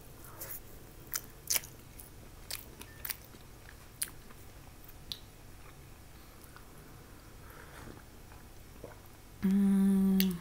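Quiet chewing of soft baked syrniki (cottage cheese pancakes), with scattered small wet mouth clicks. About a second before the end comes a loud, steady closed-mouth "mmm" hum of enjoyment, lasting about a second.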